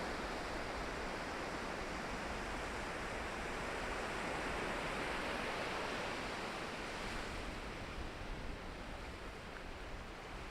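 Ocean surf washing in as a steady rush, swelling about halfway through and easing off near the end.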